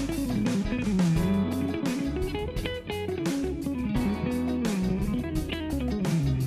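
Instrumental groove: an Ibanez RG electric guitar through a Marshall amplifier playing a melody that slides and bends in pitch, over a steady drum beat and bass line.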